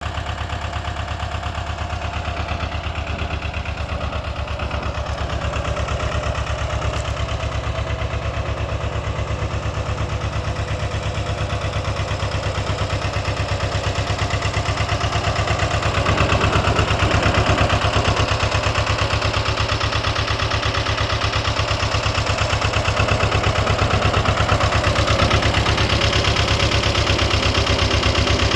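Lister ST2 two-cylinder air-cooled diesel engine running at a steady idle, with an even firing beat. It gets a little louder about halfway through.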